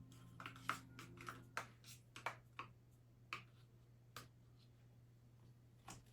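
Faint light clicks and taps, about a dozen in the first three and a half seconds, then a few spaced ones, over a low steady hum.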